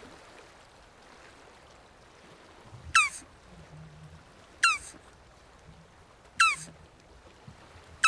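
An animal calling: three short, sharp chirps, each sliding down in pitch, evenly spaced a little under two seconds apart.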